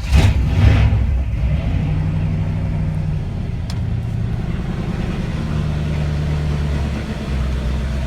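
Mercedes-Benz M117 5.5-litre all-alloy SOHC V8 running just after a cold start: the revs flare up loudly in the first second, then settle into a steady idle.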